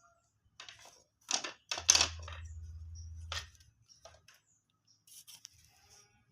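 Bird-cage parts being handled and fitted: a run of sharp clicks, rattles and scrapes, with a low hum for about a second and a half near the middle and lighter clicks near the end.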